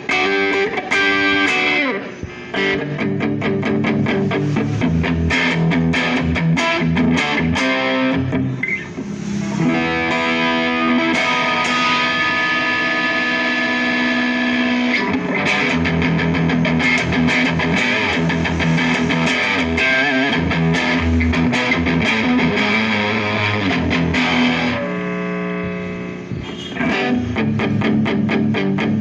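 Electric guitar played through a Mosky DTC effects pedal with a distorted tone: quick picked riffs and strummed chords, with a chord left ringing about halfway through and again near the end.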